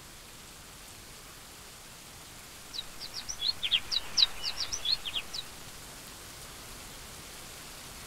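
Steady hiss of rain with a quick flurry of high bird chirps, about twenty short downward-sweeping notes, between about three and five and a half seconds in.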